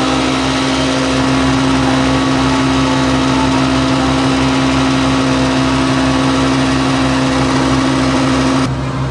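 Massey Ferguson 399 tractor's diesel engine running steadily under load, with a steady whine and hiss over it that cut off near the end, leaving the engine running a little quieter.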